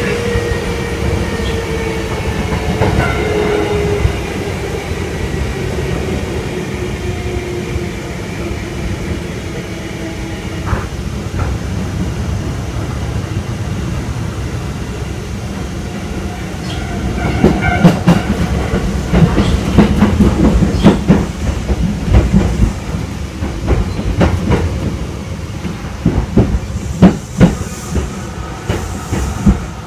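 Kintetsu 1000 series train heard from inside the car: a motor whine falls slowly in pitch over the first ten seconds as the train slows. From about halfway the running gets louder, with many sharp clacks and knocks of the wheels over rail joints and points as it nears the station.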